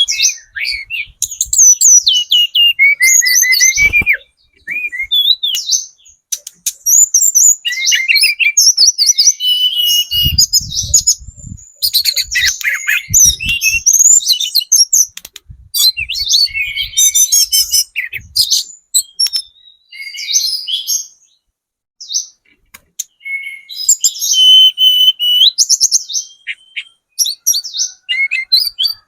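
Tledekan gunung (mountain flowerpecker) singing: quick high chirps, sliding notes and rattling trills in fast bursts with brief pauses. Some dull low thumps sound about a third of the way in.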